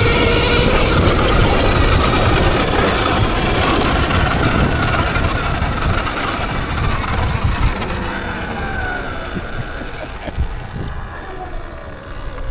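Electric dirt bike riding, with a heavy rush of wind over the microphone and a motor whine. The rush eases after about seven seconds, and near the end the whine falls in pitch as the bike slows.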